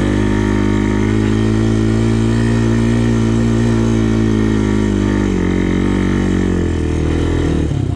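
Honda 400X quad's single-cylinder four-stroke engine pulling steadily up a hill climb, its pitch sagging slightly in the second half. The throttle comes off shortly before the end.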